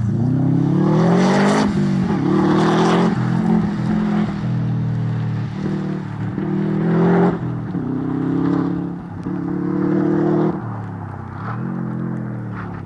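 Subaru Impreza rally car's flat-four boxer engine revving hard, its pitch climbing and dropping again and again as the car accelerates and slows through tight turns around the course markers.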